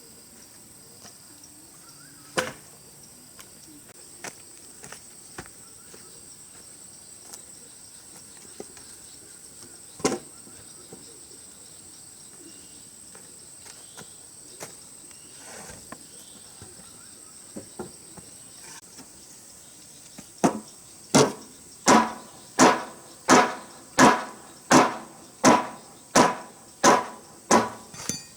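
Wood being struck by hand, a couple of single knocks and then a regular run of about a dozen blows, roughly three every two seconds, in the last third. A steady high cricket trill runs underneath.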